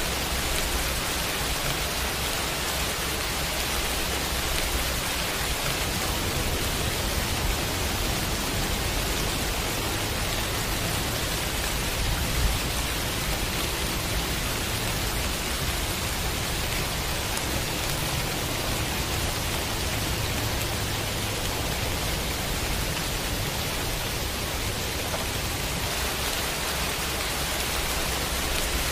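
Steady heavy rain, an even unbroken hiss. A low rumble swells underneath through most of the middle.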